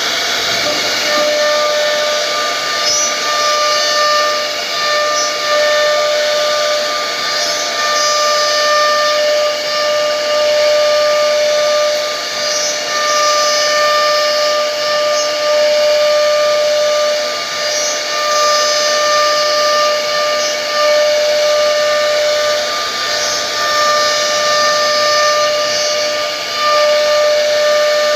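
An electric power tool running steadily: a constant high-pitched motor whine over a loud hiss, the whine fading and returning in long stretches.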